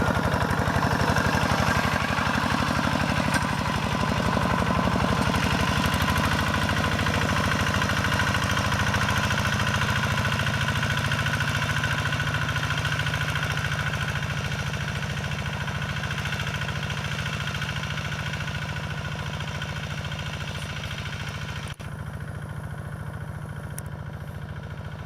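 Single-cylinder diesel engine of a Quick G1000 two-wheel hand tractor running steadily with a rapid even thud, slowly growing quieter. About 22 s in there is a brief break, after which it sounds duller.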